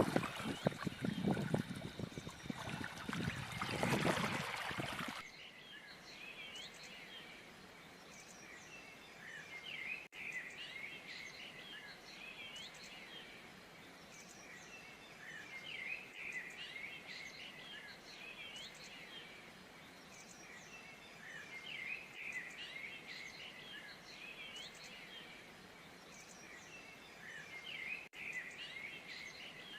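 Loud rushing noise for about the first five seconds, cut off suddenly; after that, many small birds chirping and twittering faintly and continuously.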